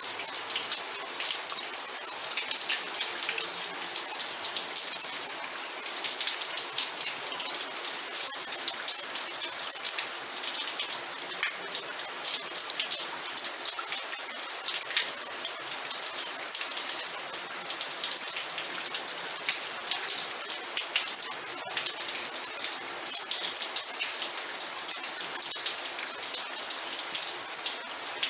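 Steady rain falling: an even hiss full of many separate drop hits, unchanging throughout.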